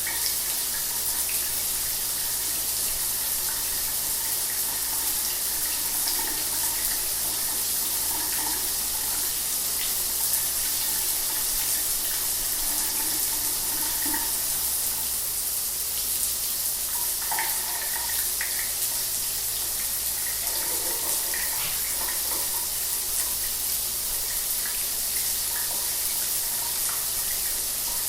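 Shower running: a steady hiss of falling water, with small splashes and drips scattered through it.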